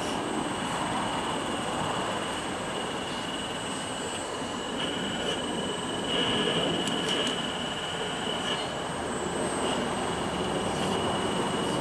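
Small electric motors of RC model construction machinery running, giving a steady high whine over a rough grinding noise, slightly louder about six seconds in.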